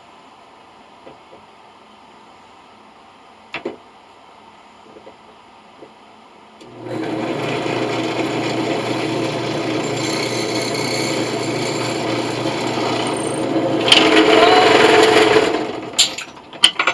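Electric drill running and drilling into brass, a steady motor hum under a metal-cutting sound that grows louder near the end. The drill then stops, followed by a few sharp clicks: the drill bit broke and stuck in the coin.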